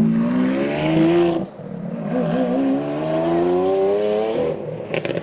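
Lamborghini Aventador S Roadster's V12 accelerating hard. It rises in pitch, drops at an upshift about a second and a half in, climbs again, and shifts once more near the end, with a quick burst of sharp cracks.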